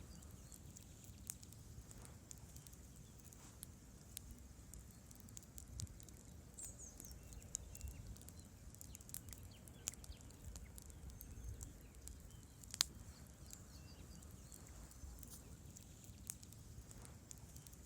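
Wood campfire burning, with sparse crackles and pops over a low, steady rumble of the flames and one sharp pop about 13 seconds in. The sound is faint throughout.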